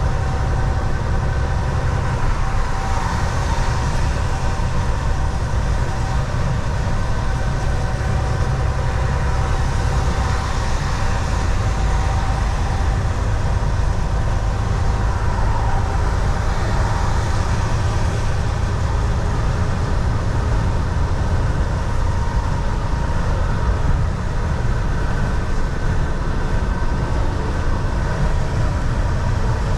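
Volvo VNL 760 semi truck cruising at highway speed, heard from the driver's seat: a steady low rumble of engine and road noise with a faint steady whine above it.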